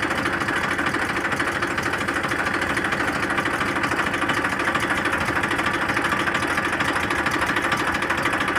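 A spray pump set's engine running steadily with a fast, even chugging beat.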